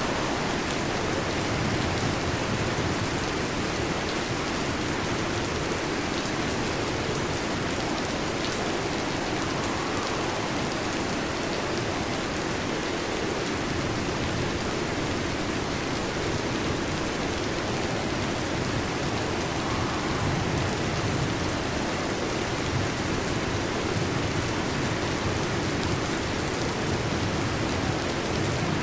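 Heavy rain drumming steadily on a metal roof, an even hiss of countless drops with no thunder.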